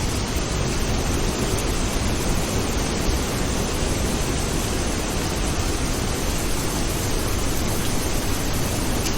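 Steady rain falling, a dense, even hiss with no separate thunderclap.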